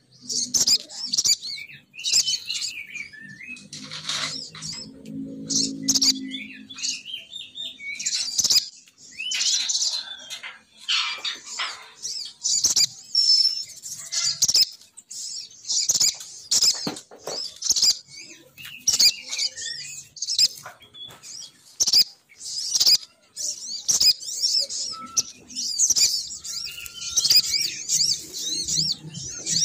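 Sogon birds calling: rapid, high-pitched chirping and chattering trills, used as a female sogon's lure call to draw males down. A faint low hum sits under the calls between about four and seven seconds in.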